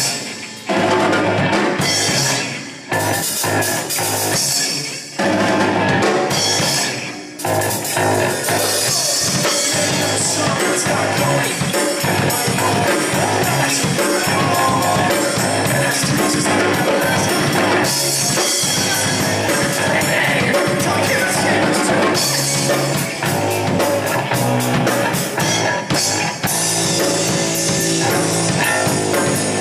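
Live rock band playing loud, with a drum kit driving it, in a rough recording with bad sound. A few short stop-start breaks come in the first seven seconds, then the band plays on without stopping.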